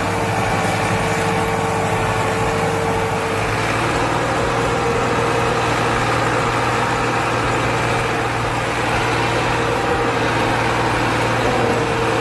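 Massey Ferguson 260 tractor's diesel engine running steadily under load while pulling a loaded sugarcane trolley, with a steady whining tone over the engine note.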